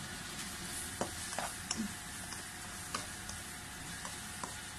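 Vegetables frying in a non-stick pan with a steady, soft sizzle, and a few scattered sharp clicks as a spatula starts stirring them.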